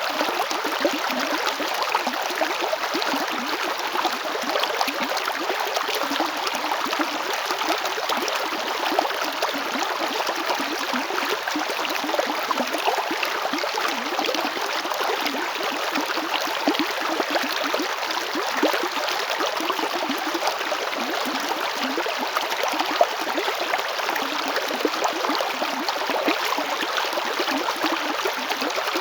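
River water flowing steadily over rocks: a continuous rushing with fine splashing and gurgling.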